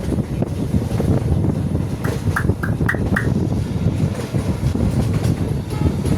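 Steady low rumble of a moving vehicle, with scattered light clicks and four short high squeaks about two to three seconds in.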